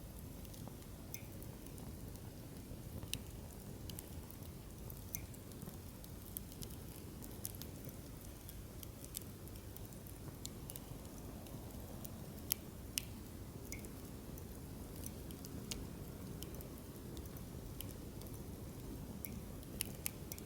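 Wood fire in a fire pit burning, with a steady low rumble of flames and scattered sharp crackles and pops from the burning firewood. The two loudest pops come close together about two-thirds of the way through.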